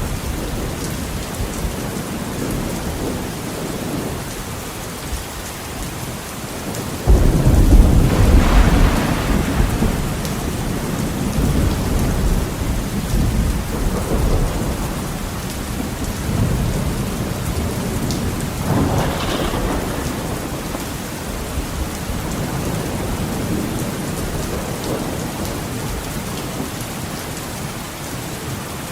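Heavy rain falling steadily against a window, with a sudden loud, deep thunderclap about a quarter of the way in that rumbles and fades over several seconds, and a smaller crack of thunder past the middle.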